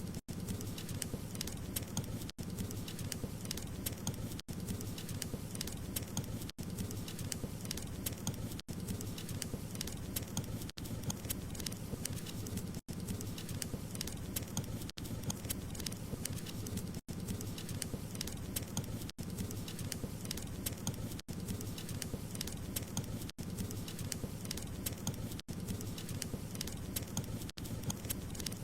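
Wood fire burning in a fireplace, crackling and popping steadily over a low rumble of flame, with brief dropouts about every two seconds.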